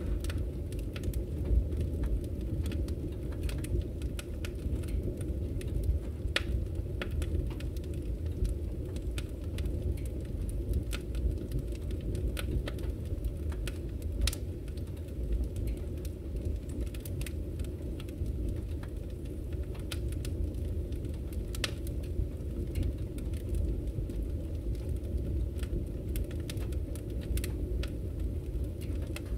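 Wood fire in a fireplace crackling: a steady low rumble from the flames with irregular sharp pops and snaps scattered all through.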